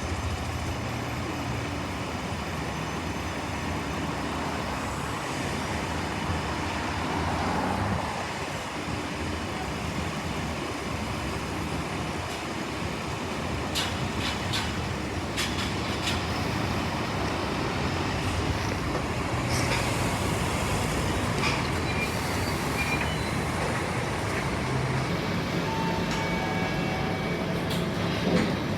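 Scania K230UB Euro IV city bus running, its diesel engine and road noise heard from inside the cabin, with a few sharp clicks and rattles about halfway through. The engine note steps up near the end.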